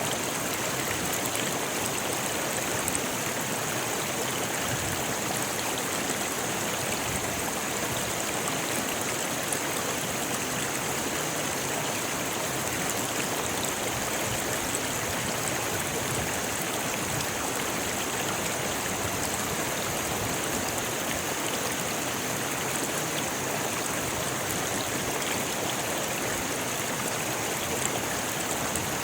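Rocky river rushing over stones: a steady, unbroken wash of running water.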